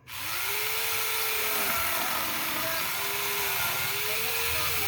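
Electric variable-speed grinder fitted with a chainsaw attachment, switched on suddenly and running loud and steady. Its whine dips and recovers in pitch a few times.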